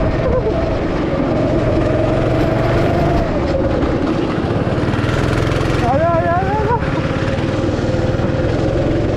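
Vehicle driving on the road: a steady engine and road rumble, with a brief wavering voice about six seconds in.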